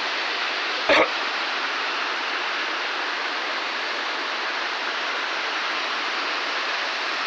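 Steady rushing of a waterfall, a close, even roar of falling water. About a second in there is one short, louder sound.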